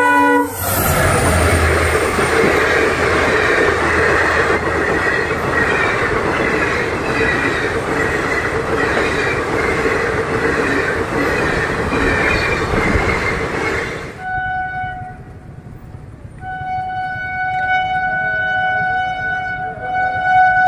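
A train horn ends shortly after the start, then a passenger train rushes past at speed, a loud steady rush with the regular clatter of wheels over the rail joints, for about thirteen seconds until it cuts off suddenly. Steady high horn-like tones follow to the end.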